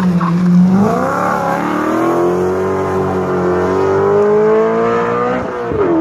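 Rally car engine accelerating hard away down a straight, its revs climbing through the gear. Near the end the pitch drops sharply at a gear change, then it pulls again.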